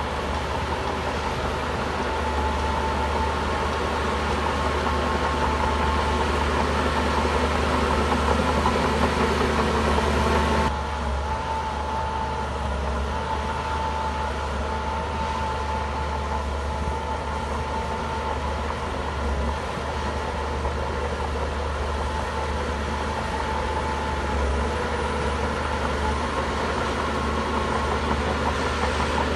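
Shantui bulldozer's diesel engine running steadily, a deep drone with a high whine over it. The sound drops slightly and changes abruptly about ten seconds in.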